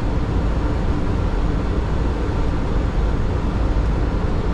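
Steady rushing noise of airflow and engines on the flight deck of a Boeing 737 on final approach, even and unbroken.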